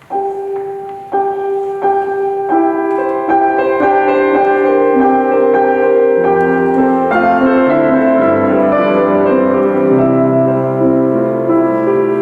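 Solo piano playing: notes enter one after another and build into a ringing melody with chords. Lower bass notes join about six seconds in.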